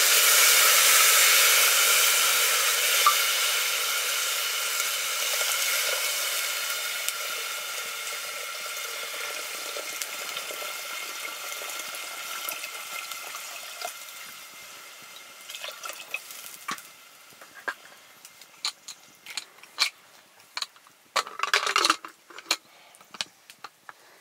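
Food sizzling in hot oil in a pan: loud at first, then dying down gradually over about fifteen seconds. After that, scattered clicks and scrapes of a utensil in the pan, with a short louder scrape near the end.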